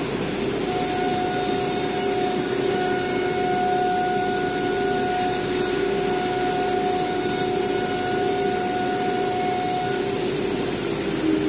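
CNC router running: a steady machine noise with a constant whine, joined by a second, higher whine that starts about a second in and stops near the end.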